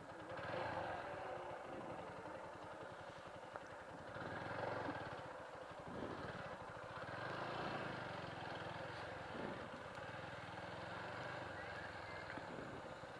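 Motorcycle engine running at low speed, a steady fast pulsing, with rougher noise swelling and fading over it.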